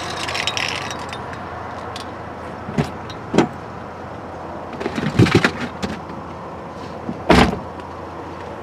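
A car engine running steadily, with a few sharp clunks and knocks over it, the loudest about seven seconds in.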